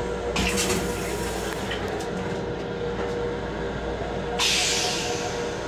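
Metro-North M7 electric railcar running, heard from inside its restroom: a steady rumble with a constant hum. Two brief hisses come through, one about half a second in and another about four and a half seconds in.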